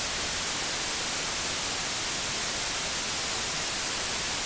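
Steady TV static: an even, unbroken hiss, strongest in the high frequencies.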